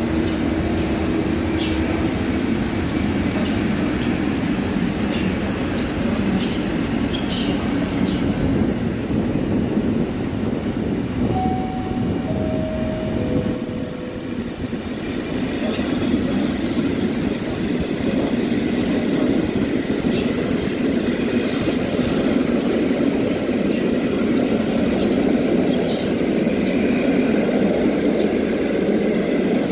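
PKP Intercity passenger coaches rolling along the platform: a steady rumble of wheels on the rails with scattered clicks. A falling three-note chime sounds about halfway through.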